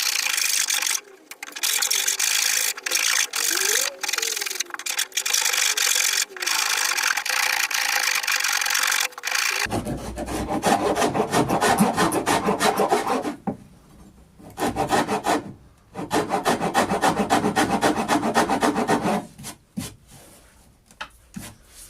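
Dreadnought file being stroked back and forth over a hardwood timber sill repair, shaving the wood with rapid rasping strokes and brief pauses. About ten seconds in the strokes turn coarser and deeper, then stop and start in shorter runs near the end.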